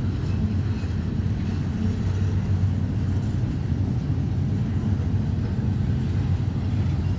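Steady low vehicle rumble, even throughout with no sudden events.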